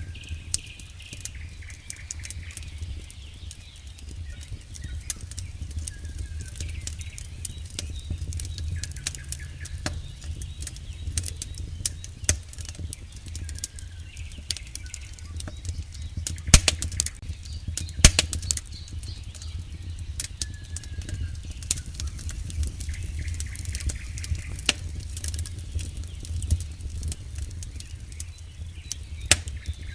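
Campfire burning: wood crackling and popping in irregular sharp snaps over a steady low rumble of flame, with two louder pops a little past the middle.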